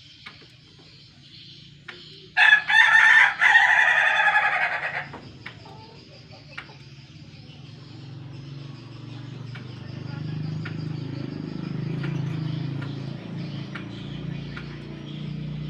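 A rooster crowing once, a loud call of about two and a half seconds starting a little after two seconds in. A low steady hum then builds up underneath from about eight seconds on.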